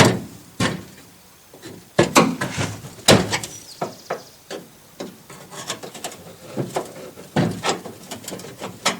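Irregular metal knocks, clunks and scrapes as the steel dash of a 1955–59 Chevrolet/GMC pickup cab is worked loose by hand, the loudest knocks about two and three seconds in and again near the end.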